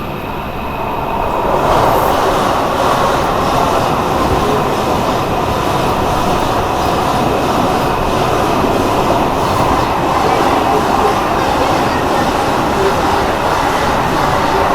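Express train with LHB coaches running at speed, its wheels on the rails giving a steady rushing rumble. The noise builds over the first two seconds, then holds.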